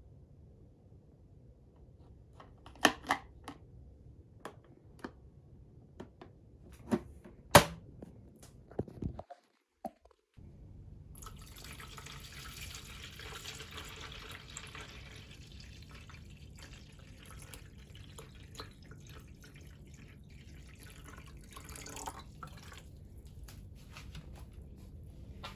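A series of sharp clicks and knocks, like plastic parts being handled. After a short break, a steady hiss of trickling, dripping water.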